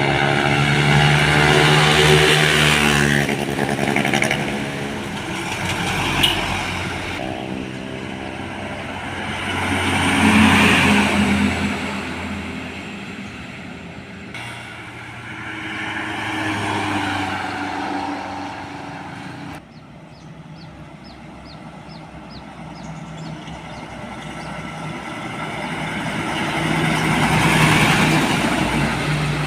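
Road traffic: heavy vehicles pass one after another, about four in all, each engine swelling as it comes by and fading away. The sound drops off abruptly about twenty seconds in.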